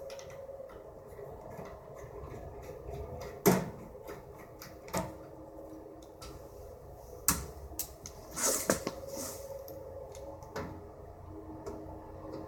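Scattered knocks and clanks of a hand tool and sheet-metal parts as the screws of a gas furnace's blower motor are undone, with a short scraping clatter about eight and a half seconds in.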